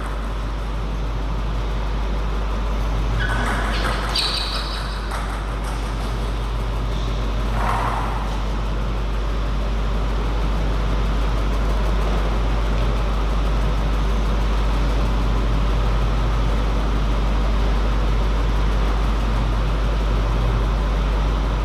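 Steady low hum and background noise of a playing hall with no ball being hit, broken by a few brief higher sounds early on.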